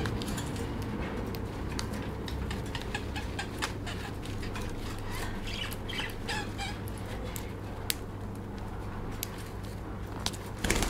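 Lovebird chirping in short, quick notes, mixed with scattered sharp clicks over a steady low hum.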